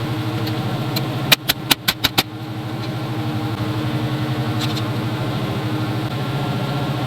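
A vehicle engine running at a steady idle, with a quick run of about five sharp clicks about a second and a half in.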